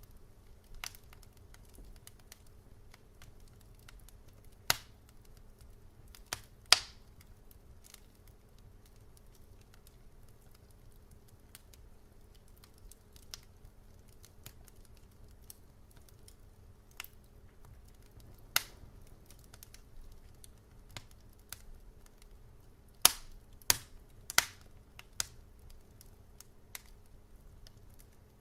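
Wood fire crackling in a fireplace: scattered sharp pops and snaps at irregular intervals over a faint low hiss and hum, with a cluster of loud pops a little after the middle and several more near the end.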